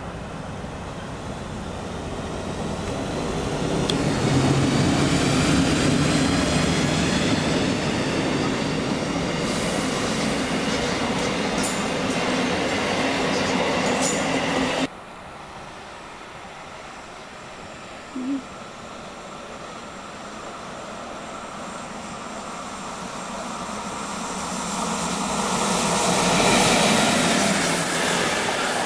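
ÖBB electric trains passing close by. First a locomotive-hauled CityShuttle train rolls past, its wheels on the rails building to a steady loud rumble that cuts off abruptly about halfway. Then a class 1044 electric locomotive and its train approach, the rolling noise swelling again, with high-pitched wheel squeal near the end.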